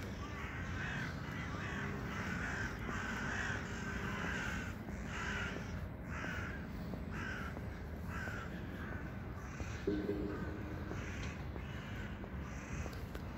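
Birds cawing over and over, about one and a half harsh calls a second, thinning out about eight seconds in, over a faint steady background hum. A brief low sound comes near the end.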